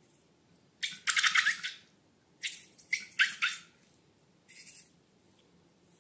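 Slime and balloons being squeezed and handled: four short wet, squelchy bursts, the loudest about a second in and the last, near the end, faint.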